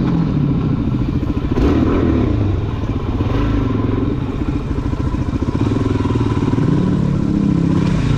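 Suzuki DR-Z400SM's single-cylinder four-stroke engine running under riding load, its note rising and falling with the throttle. There is a short knock about one and a half seconds in and another near the end.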